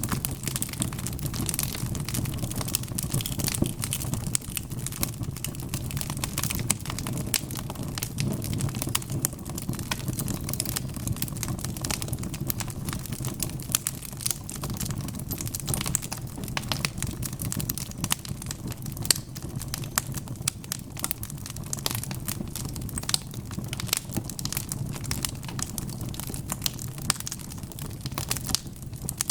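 Wood fire crackling steadily: a dense run of small sharp pops and snaps over a low, even rumble of the flames.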